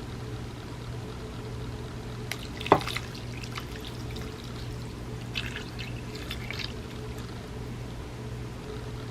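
A sharp clink of tableware about three seconds in, then soft wet clicking and liquid sounds from the bowl of cake and warm almond milk, over a steady low hum.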